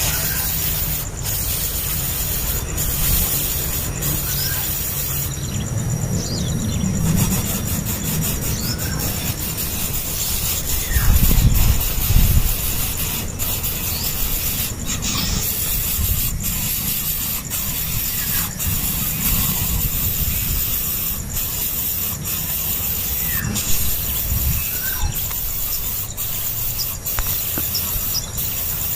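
Faint short high peeps from five-day-old nestlings begging while being hand-fed, over a low rumble of handling noise with scattered clicks; the rumble is loudest about eleven seconds in.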